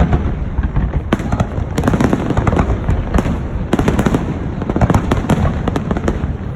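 Fireworks display: a dense barrage of shell bursts and crackles, many bangs overlapping one another over a continuous low rumble.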